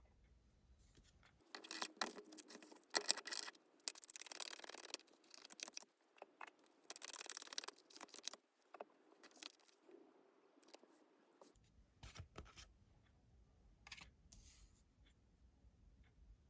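Tarot cards being shuffled and handled: bursts of sliding, riffling rustle about one and a half seconds in and again around four and seven seconds, with light taps and clicks of cards set down.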